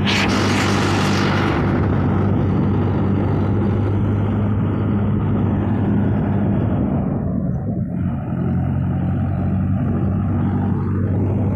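Tractor's diesel engine running steadily under load, heard close up. A short burst of hiss in the first second and a half.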